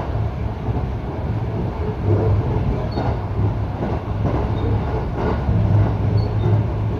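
Electric local train running between stations, heard from inside the carriage: a steady rumble of wheels on the rails that swells and eases a little.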